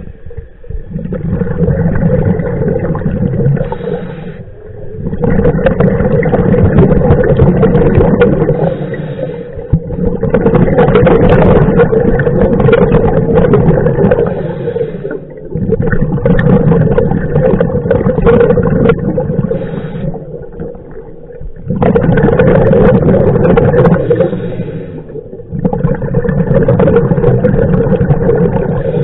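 Scuba diver breathing through a regulator underwater: long bursts of exhaled bubbles about every five seconds, separated by short quieter breaks at each inhale.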